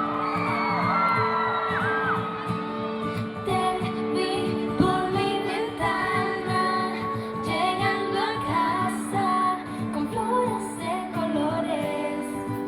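Live pop band music: a song's opening bars with steady sustained chords and a melody line, and audience screams fading out over the first couple of seconds.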